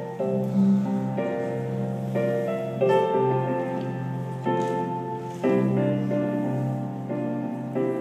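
Piano playing slow, sustained chords, a new chord struck every second or two.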